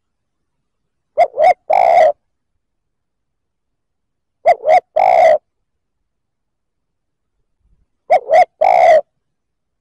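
Spotted dove cooing: three calls about three and a half seconds apart, each two short coos followed by a longer coo.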